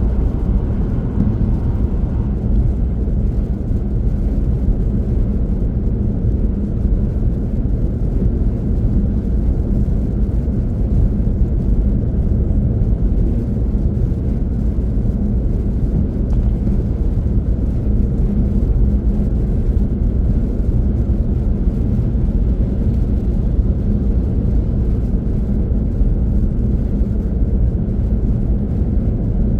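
Car driving at speed: a steady, loud rumble of road and engine noise that does not change.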